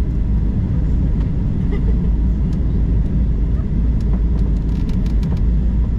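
Airliner cabin noise during the descent: a steady low rumble of engines and airflow, with a few faint ticks in the second half.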